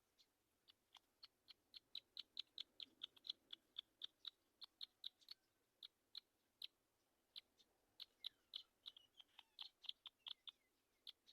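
A bird giving short, sharp chip calls over and over, two to four a second in an irregular run that starts about half a second in.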